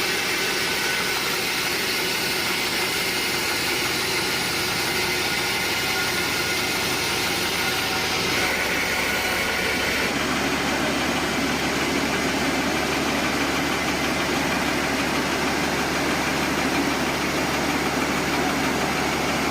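Sawmill machinery running steadily, a loud even mechanical noise like an engine at work. Its tone shifts about eight seconds in, and a steady low hum joins about ten seconds in.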